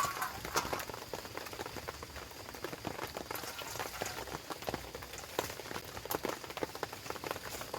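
Rain falling on a tent shelter: irregular sharp drops tapping over a steady hiss.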